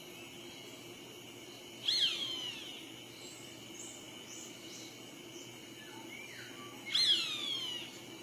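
Roadside hawk calling twice, about five seconds apart: each call is a high note that slides downward over about a second. Faint short chirps sound between the two calls.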